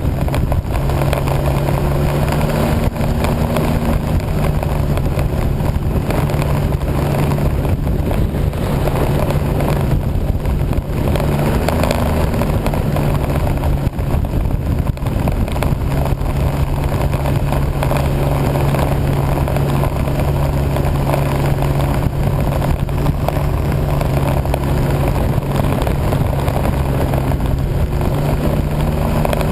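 A vehicle's engine running continuously at a fairly even pace while being ridden, its pitch rising and falling slightly now and then, under heavy wind noise on the microphone.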